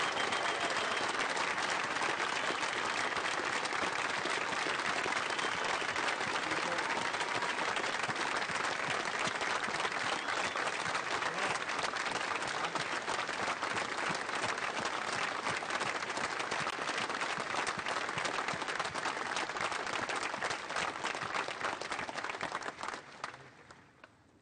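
Audience applauding: a long, steady round of clapping that fades away near the end.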